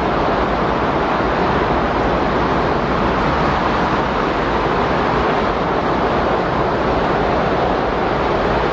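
Windstorm sound: a steady, even rush of wind noise with no gusts, breaks or changes.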